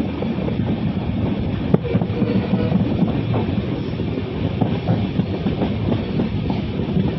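Train coach rolling along the track: a steady rumble of wheels on rail with irregular clacks, and one sharper click about two seconds in.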